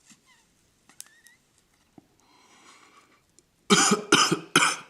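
A man coughing loudly three times in quick succession near the end, after a hiss of breath, from inhaling the smoke of a cigarette rolled from his own homegrown tobacco.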